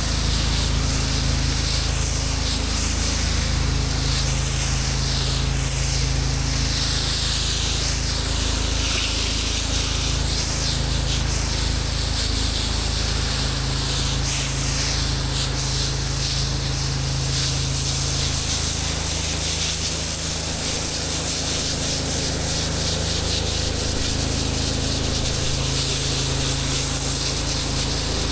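A pressure washer running steadily, with high-pressure water spraying. There is a constant low engine hum under a loud hiss that swells and sweeps as the spray moves.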